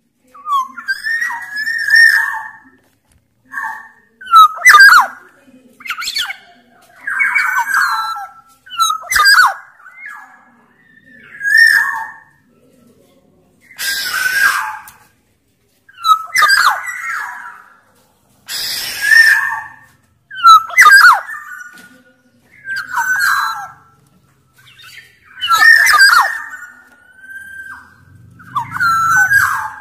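Black-naped oriole (Sumbawa kepodang) calling over and over: short whistled phrases every second or two, broken by two longer harsh rasping calls in the middle.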